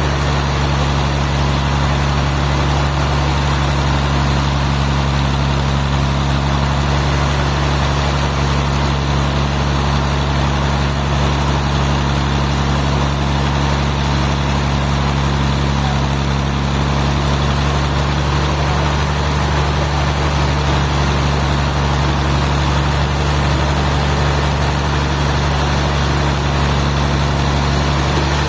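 A large engine running steadily at a constant speed, with a deep even hum and no let-up.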